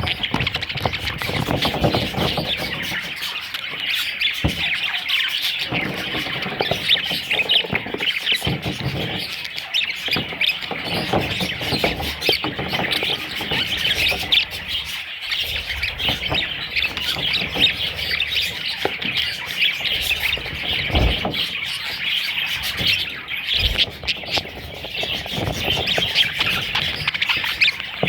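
Budgerigars chattering and squawking without a break, a dense flock-like warble, with a few soft low knocks.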